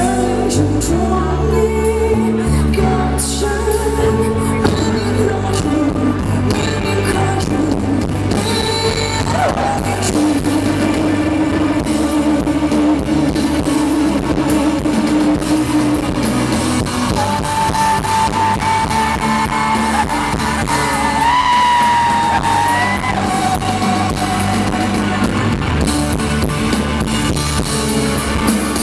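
Live band music with a woman singing, holding long notes over guitar and band accompaniment.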